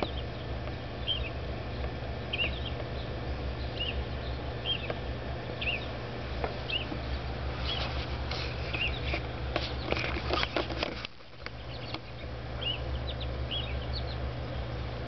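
A small bird chirping over and over, short high chirps about once a second, over a steady low rumble. A run of clicks and rustling comes about eight to eleven seconds in.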